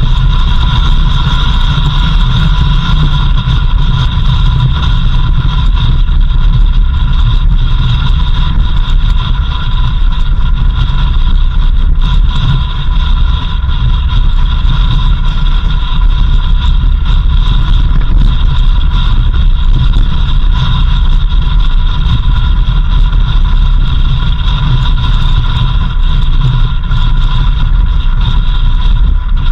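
A vehicle driving steadily: a constant low engine and road rumble with a steady high-pitched whine over it, at an even pace throughout.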